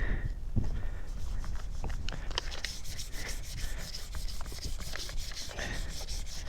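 Rapid rubbing and scratching close to the microphone, thickening about halfway through, over a steady low rumble.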